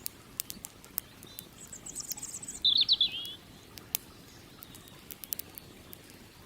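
Campfire crackling with scattered sharp pops over a low steady rush. About two seconds in, a small bird sings a quick high trill that drops into a louder, lower warbling trill.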